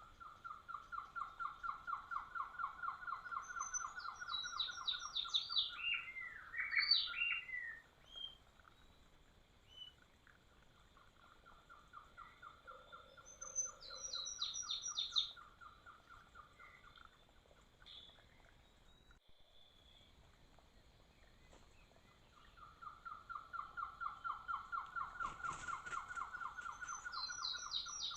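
Birds calling: a long, even trill of about four notes a second, heard three times, each ending with higher notes stepping down in pitch and a few slurred whistles over it.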